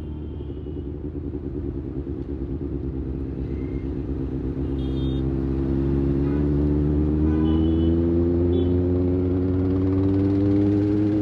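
Kawasaki ZX-6R's 636 cc inline-four engine pulling under acceleration. Its pitch and loudness climb steadily from about four seconds in.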